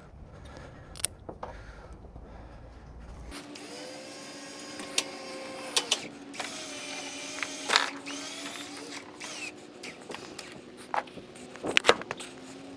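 Log winch pulling a log: a steady mechanical hum with a higher tone that bends up and down in pitch, and scattered creaks, clicks and knocks. A low rumble cuts off suddenly about three seconds in.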